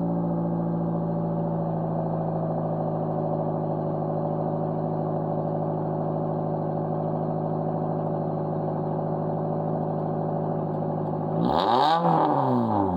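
2004 Pontiac Vibe's 1.8-litre four-cylinder engine, straight-piped with the muffler removed, idling steadily just after a cold start. Near the end it is revved once, the pitch rising and falling back.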